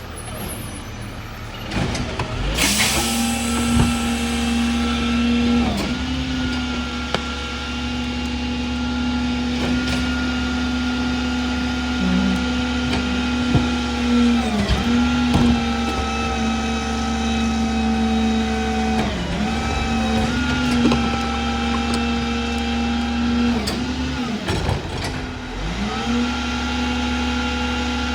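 Heil Formula 4000 rear-loader garbage truck running its hydraulic packer: the engine is held at raised speed with a steady whine, and the pitch sags and recovers several times as the packer changes stroke. A short hiss of air comes about two seconds in.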